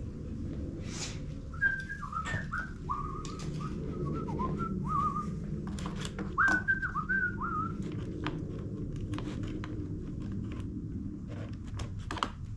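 A person whistling a short tune in two phrases, between about one and a half and eight seconds in, over a steady low hum and small clicks of parts being handled.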